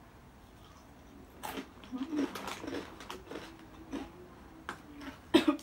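Crunching and chewing of small crispy fried macaroni snack pieces, starting about a second and a half in as sharp, irregular crackles. A short voiced sound comes near the end.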